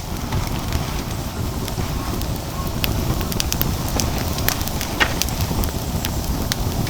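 Wood fire burning hard in a fire pit: a steady low rumble of flame with sharp crackles and pops scattered throughout, one louder pop about five seconds in.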